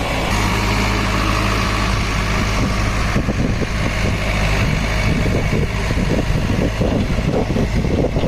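Heavy diesel engine running steadily. About three seconds in, a run of irregular knocks and clatter starts over it.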